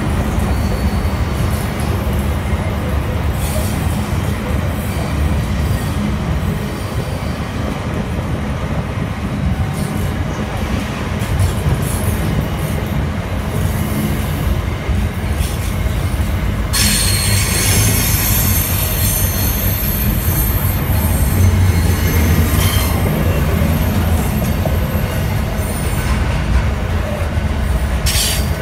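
Diesel-hauled freight train passing close by: the wagons rumble steadily over the rails. From about two-thirds of the way through, a high steel-wheel squeal joins the rumble and carries on to near the end.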